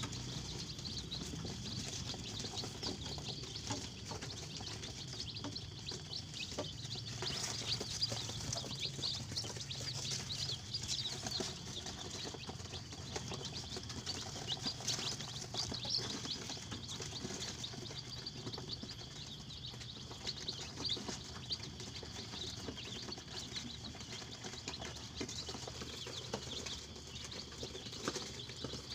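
A flock of KUB native chickens calling, with many short high-pitched chirps overlapping continuously over a low steady hum.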